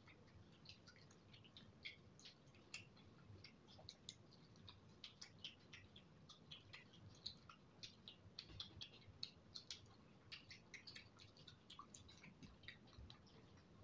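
Faint, wet chewing and lip-smacking: many small, irregular clicks from a person eating saucy noodles and fried chicken with his hands, close to the microphone.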